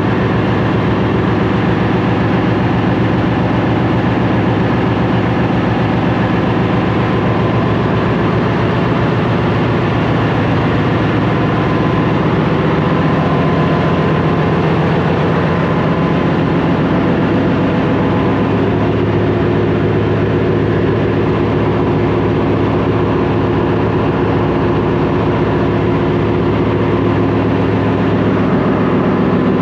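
Ship's engine-room diesel machinery running steadily, a loud continuous drone with a low hum.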